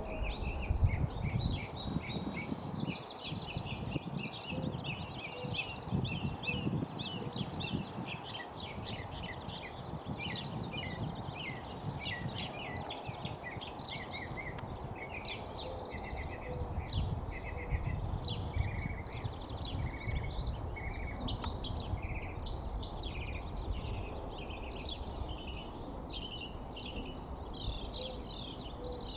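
Several songbirds chirping and singing continuously, with quick varied and repeated phrases, over a low rumbling noise.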